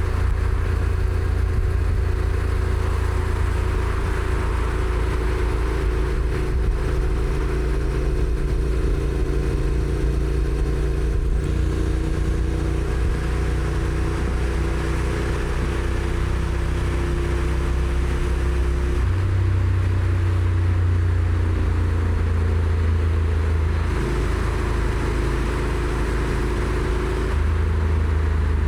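Honda NC750X's parallel-twin engine running under way, a steady low note that shifts a few times in the later part, over wind and road noise.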